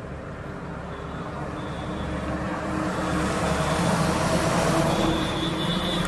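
A large vehicle running and drawing nearer, growing steadily louder over the first few seconds, with a steady low hum and a faint high whine.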